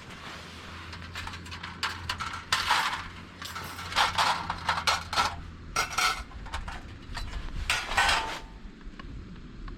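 Irregular clatter of metal cookware and utensils being handled, with a few strikes ringing briefly, over a low steady hum during the first six seconds or so.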